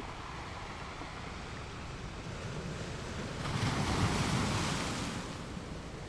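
Surf washing onto a shore: a steady wash of water noise, with one wave breaking and rushing in about halfway through, louder for a couple of seconds before it fades back.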